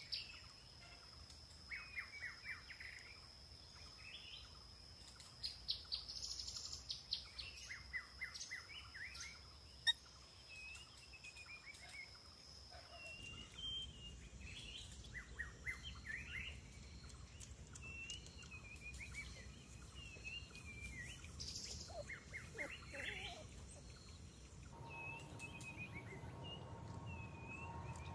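Birds chirping and calling in repeated short phrases, with a steady high whine under them for about the first half.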